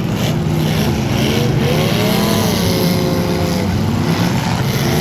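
Demolition derby car engines running loudly, with one engine revving up and easing off about two seconds in.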